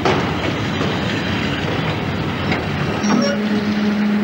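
Train noise: a steady rumbling and clatter of a train on the rails. About three seconds in, a steady low hum begins and holds.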